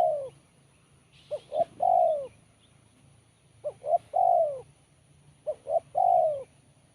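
A spotted dove (tekukur) cooing its song phrase three times, about every two seconds, with the tail of an earlier phrase at the start. Each phrase is two or three short clipped notes followed by one longer coo that falls at the end. The voice is one its keeper calls crisp and sharp.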